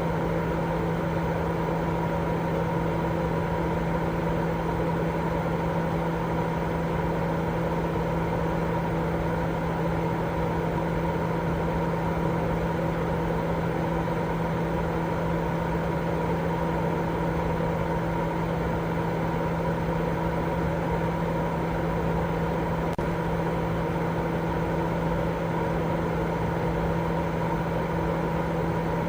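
Continuous baby-sleep white noise: an even, unchanging rushing hiss with a steady low hum running through it.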